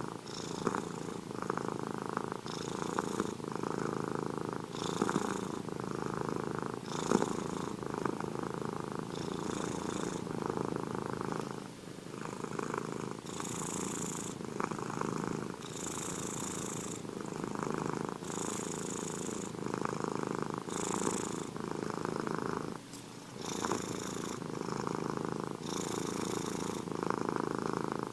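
Domestic cat purring steadily and close up, the purr swelling and easing with each breath in and out, about one breath every two seconds.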